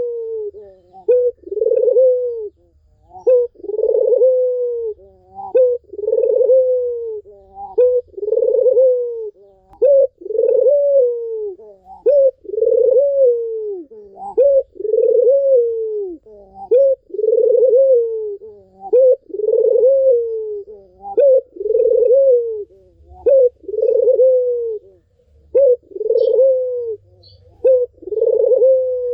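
Barbary dove (puter) cooing over and over, about one coo a second, each a short upward note sliding into a longer falling one. It is a lure recording of dove song, meant to set silent cage doves cooing.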